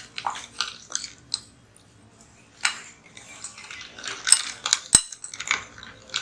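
A spoon scraping and clinking against a bowl while stirring dry crumbled bread and powders together: irregular short scrapes and clicks, with a few sharper clinks about four to five seconds in.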